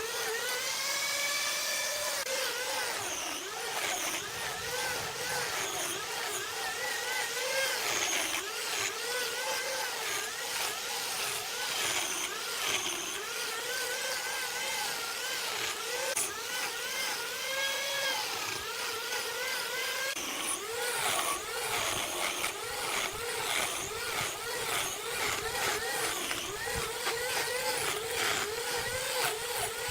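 A power tool's motor running under load while working wood, its pitch repeatedly sagging and recovering about once a second, over a gritty cutting hiss.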